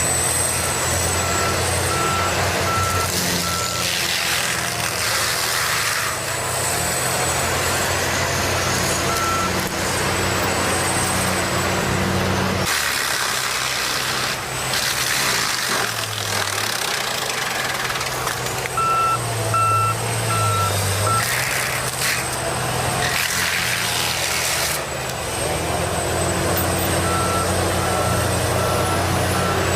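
A heavy diesel machine, such as a logging truck or forestry machine, running steadily. Its reversing alarm beeps in short runs of four or five evenly spaced beeps, several times over.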